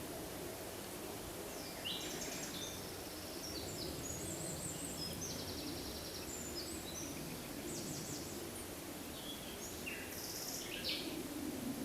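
Forest ambience: several songbirds calling and singing in short, high trilled phrases, over a steady low background rush.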